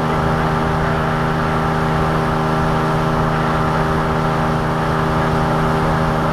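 Boat's outboard motor running steadily at cruising speed, holding one even pitch, with the rush of wind and water over it.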